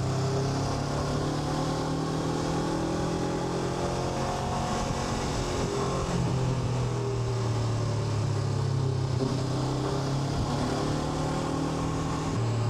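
Honda NX500's parallel-twin engine running at a steady cruise while riding, its note drifting slightly up and down with the throttle, over a steady rush of wind noise.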